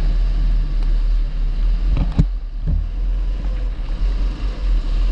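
270 cc kart engine running at speed under heavy low rumble, with one sharp knock a little over two seconds in.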